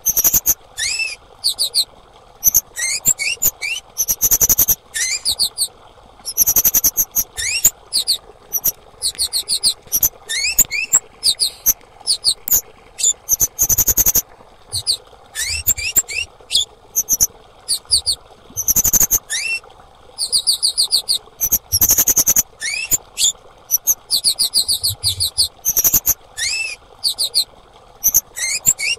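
Female orange-headed thrush calling in rapid phrases: fast high trills of repeated notes, mixed with short upward-sweeping whistled notes, with brief pauses between phrases.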